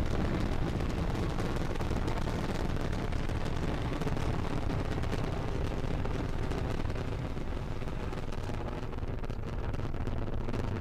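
Falcon 9 first stage's nine Merlin engines firing in ascent: a continuous crackling rumble, heaviest in the low end, easing off slightly about seven seconds in.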